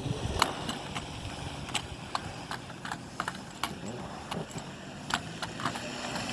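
Footsteps crunching on hard, icy snow: a string of sharp, irregular crackles over a low background rumble.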